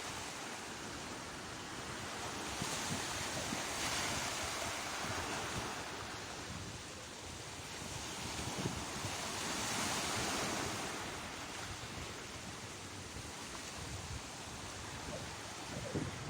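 Sea waves breaking and washing on the shore, the surf swelling twice, with wind buffeting the microphone.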